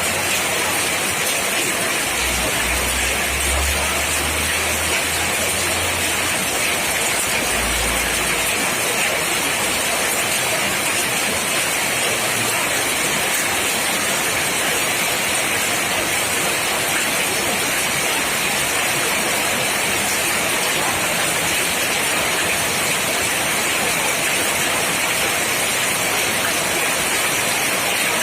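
Steady heavy rain, an even rushing hiss that does not let up, with a low rumble in the first several seconds.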